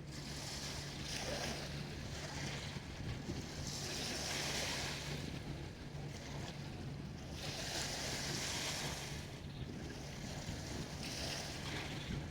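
Harbour sea waves washing against the shore, each wash swelling and fading about every three to four seconds over a constant rush of water. A low steady hum runs underneath.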